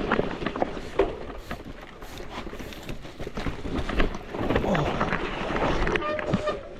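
Bike riding down a rough dirt single-track: wind buffets the microphone over the knocks and rattles of the bike on the bumpy trail, with a short squeal near the end.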